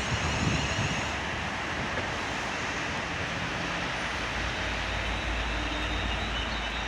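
Class 350 Siemens Desiro electric multiple unit arriving at the platform: a steady rumble of wheels on rail, with a deeper rumble from about four and a half seconds in.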